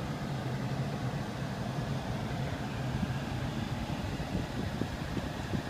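2001 Lexus RX 300 air-conditioning system running with a steady hum, with irregular clicking and rattling coming in about halfway and getting more frequent: the noisy-AC fault being fixed.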